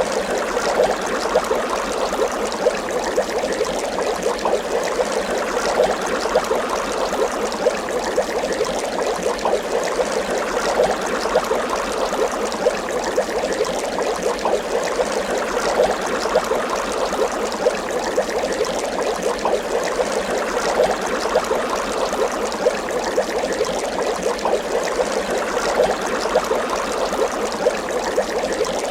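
Water bubbling continuously, a steady dense stream of small bubble pops and gurgles.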